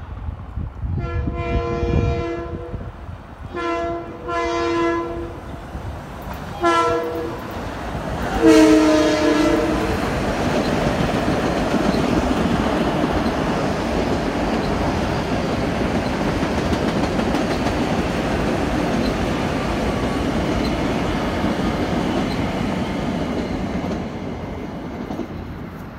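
A Long Island Rail Road M7 electric train sounding its horn in a series of separate blasts as it approaches a grade crossing, the last blast the loudest and longest. From about ten seconds in, the train's cars rumble steadily past on the rails, easing off near the end as the last car goes by.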